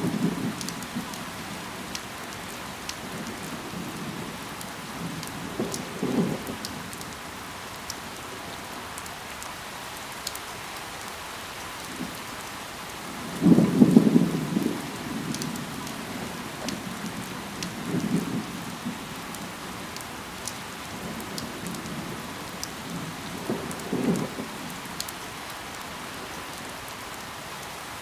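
Steady rain falling on leaves, with scattered sharp drop impacts. Short louder low bursts come every few seconds, the strongest about halfway through.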